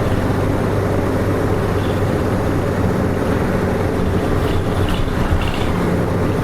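Diesel engine of a KK-RM252GSN city bus running steadily while the bus travels, heard from inside the passenger cabin with road noise.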